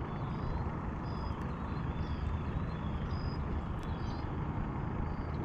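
Steady low outdoor rumble with short high-pitched chirps repeating about once a second.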